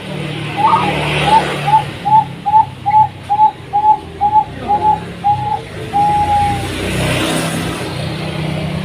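Zebra dove (perkutut) singing: a quick run of about a dozen short, clipped coos at about two a second, ending in one longer held note.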